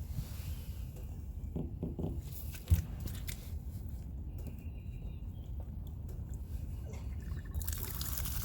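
Low handling rumble and light scattered knocks, with one sharper knock about a third of the way in. Near the end a hiss starts as rainwater begins to run out of the rain barrel's spout.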